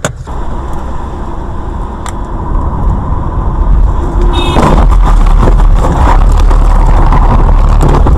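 Car driving, recorded by a dash camera: a loud low rumble of engine and road noise that grows louder about three seconds in, with a brief high-pitched tone about four and a half seconds in.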